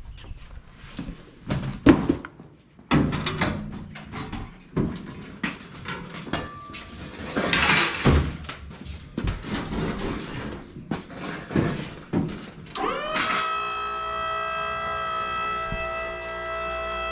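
Scattered knocks, clicks and clatter of hand work, then about three-quarters of the way through a small electric motor, like a power tool's, spins up quickly and runs at a steady pitch.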